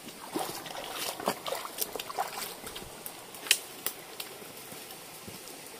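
Dry bamboo litter and stems rustling and crackling as someone pushes through a bamboo grove, with irregular small snaps and one sharp crack about three and a half seconds in.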